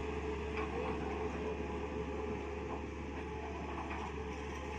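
Mini excavator's diesel engine running steadily with a constant hum, with a few faint ticks.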